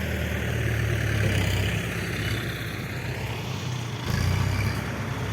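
Motor vehicle engine running steadily with road noise, swelling briefly about four seconds in.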